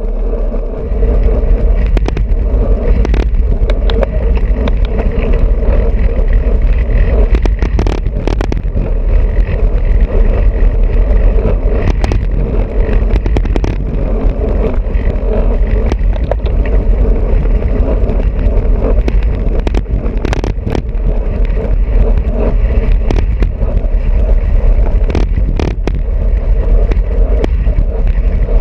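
Wind rushing over an action camera's microphone on a moving road bicycle, with a steady hum of tyres on the road and scattered clicks and rattles.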